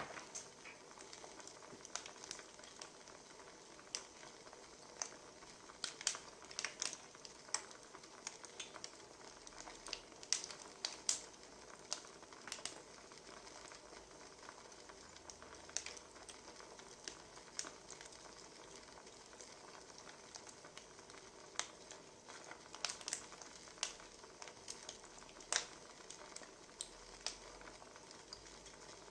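Wood fire crackling: a steady soft hiss with irregular sharp pops and snaps from burning logs.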